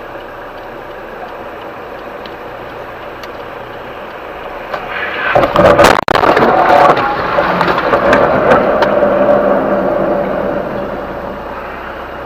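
Car crash caught on a dash cam: a steady running-vehicle noise, then about five seconds in a sudden loud burst with a few sharp knocks, followed by a steady tone and a noise that slowly dies away.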